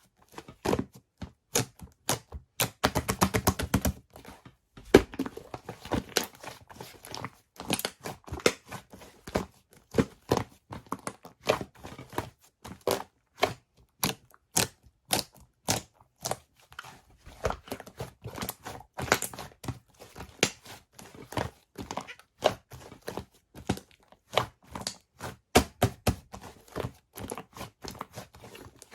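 Slime being squeezed, stretched and poked by hand, giving a continual run of sticky clicks and small pops, with a quick crackling burst about three seconds in.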